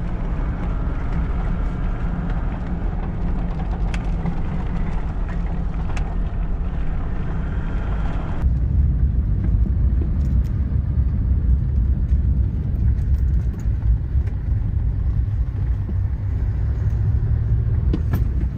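Toyota Land Cruiser 79 driving, a steady engine and road rumble. About halfway through the sound changes abruptly and the low rumble gets heavier.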